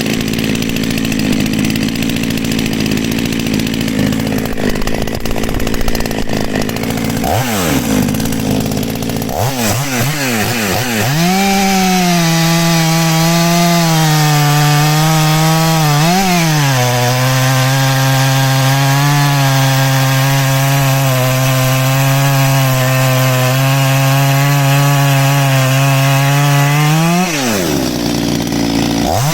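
Husqvarna 246XP two-stroke chainsaw with a modified muffler, running loud. It runs roughly at first. About eight seconds in it is throttled up to a high, steady pitch, which dips once briefly about halfway through. It drops off near the end.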